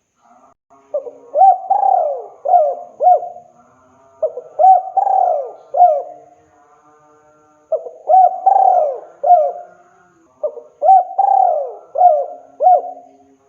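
A spotted dove (tekukur) cooing in four phrases of several notes each, with short pauses between them. This is the male's repeated advertising call to a female.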